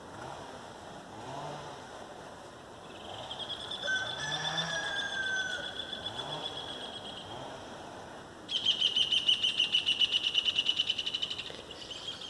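Birds calling: a high, thin whistled note with a falling whistle below it, then, about eight and a half seconds in, a loud, fast pulsing trill that lasts about three seconds.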